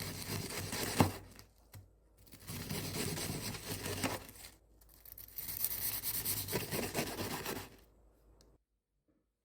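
Rustling and scraping in three stretches of one to three seconds each, stopping about eight seconds in.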